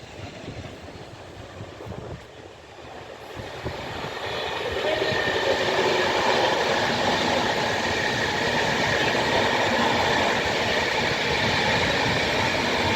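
Class 390 Pendolino electric train passing through a station at speed. The rush of wheels and air builds over about a second or two, four seconds in, then stays loud and steady.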